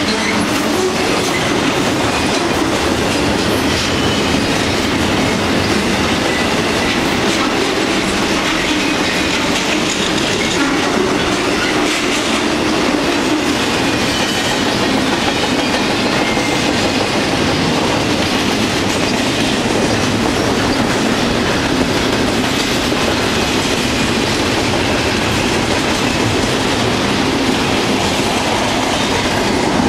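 Double-stack intermodal freight train rolling past at close range: steady, loud rolling noise of the well cars' steel wheels on the rails.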